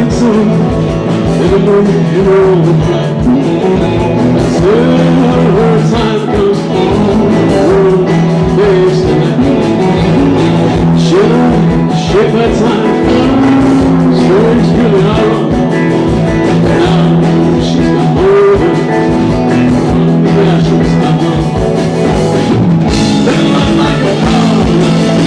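Live rock band playing a song, electric guitar with a drum kit, the guitar or voice bending and wavering in pitch over a steady full sound.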